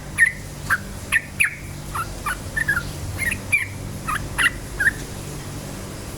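Yellow-vented bulbul (trucukan) chattering in a quick series of short, bubbly chirps that stops about five seconds in. A low steady hum runs underneath.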